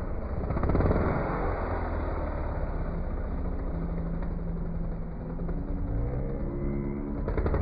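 Freestyle motocross bike engines running, with the pitch rising as a bike is revved near the end.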